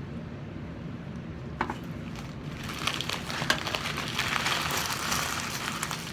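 Crunching and crackling of a bite being taken into a Burger King Double Whopper with cheese, with lettuce and toppings, and chewed, starting about two and a half seconds in after a single click.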